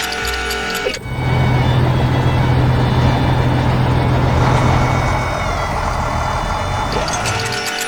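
Background music breaks off about a second in for a heavy truck engine sound effect: a steady low hum under loud rushing noise, lasting about six seconds before the music comes back near the end.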